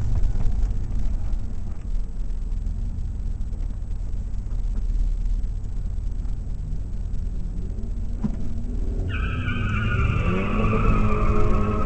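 Stock 2004 Pontiac GTO's 5.7-litre LS1 V8 rumbling at low speed, heard from inside the cabin. About nine seconds in, a high tire squeal sets in, slowly falling in pitch and lasting about two and a half seconds, while an engine revs up underneath.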